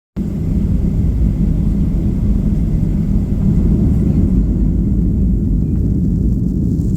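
Steady low rumble of a Boeing 737-800's CFM56-7B jet engines running.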